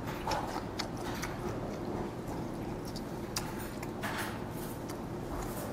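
A person chewing raw mackerel sashimi close to a lapel microphone: irregular soft wet mouth clicks and smacks over a steady low hum.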